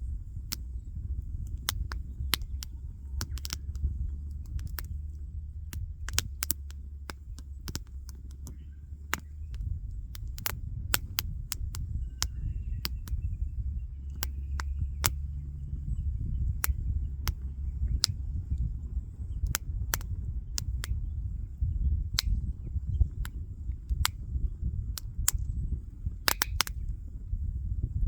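Wood fire crackling, with irregular sharp pops several times a second over a low steady rumble.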